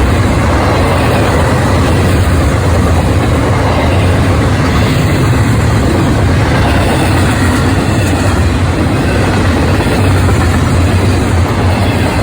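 A train passing close by: a loud, steady rumble of engine and wheels on the rails, without a break.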